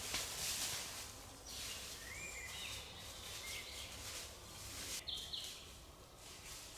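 Forest ambience: short whistled bird calls over a steady background hiss, a cluster of calls about a second and a half in and a pair near five seconds.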